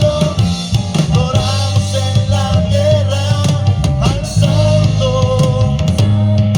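Live church band playing an upbeat song during a sound check: a drum kit keeps a steady beat under held bass notes and a wavering melody line.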